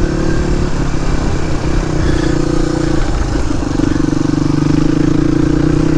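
Suzuki DR250S single-cylinder four-stroke engine running under way through a Dominator R aftermarket exhaust, its note wavering for the first few seconds and then holding steady. It is running nice and breathing well.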